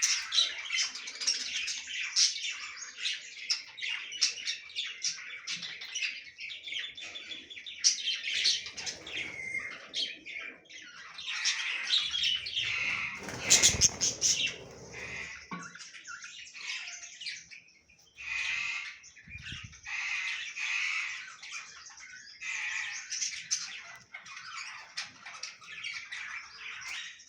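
A colony of budgerigars chattering: many overlapping chirps, squawks and warbles. A louder rustling noise breaks in about halfway through.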